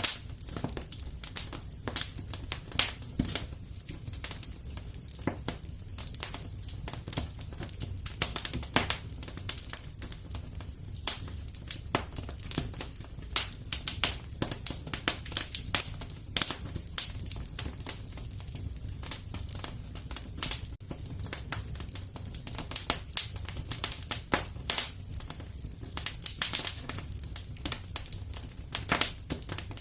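Wood fire crackling: irregular sharp pops and snaps over a soft, steady low rumble of the burning fire.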